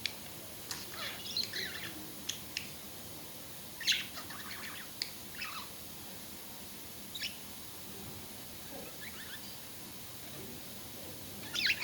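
Budgerigars chirping in short, scattered calls, thinning out in the middle, then a burst of chatter near the end.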